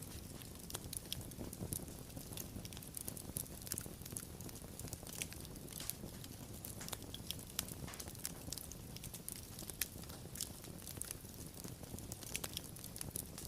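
Wood fire crackling and popping: irregular sharp pops, several a second, over a steady low rumble of burning.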